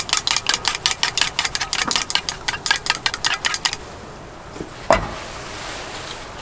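A utensil whisking or stirring fast in a bowl, about eight strokes a second for nearly four seconds, then one knock, like the utensil set down or tapped on the rim.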